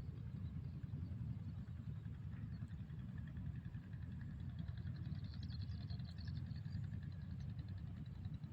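Steady low rumble with faint, high, rapid chirping in the middle.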